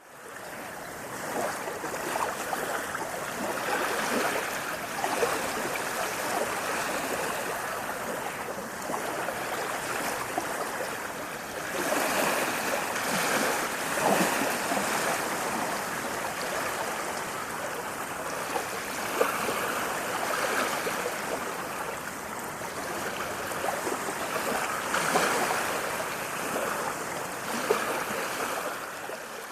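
Steady running water, a stream-like rushing and splashing that swells and eases a little. It fades in at the start and cuts out sharply at the end.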